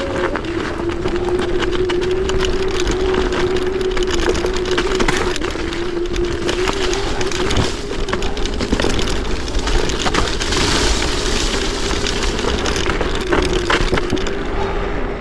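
Chaos FreeRide dual-motor electric scooter under way, its motor whining at a steady pitch, over a continuous crackling, rattling noise from the ride.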